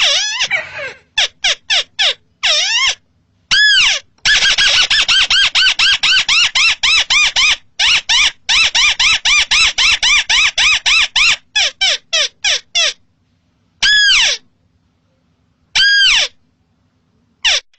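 Rice-field crake (burung tikusan) calling: fast runs of short, arched, squeaky notes, about five a second, starting and stopping abruptly. Near the end come a few single, longer arched calls.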